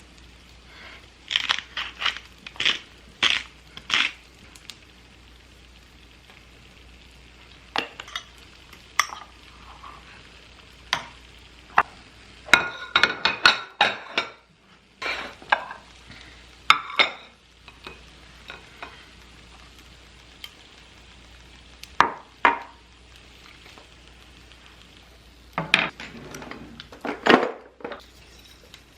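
Kitchen handling sounds: dishes and cutlery clinking and clattering in short clusters with pauses between, over a low steady hum.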